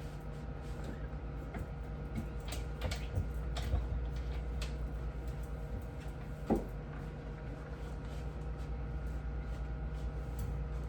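Scattered light knocks and clicks of things being handled during refrigerator cleaning, the sharpest about two-thirds of the way in, over a steady low hum.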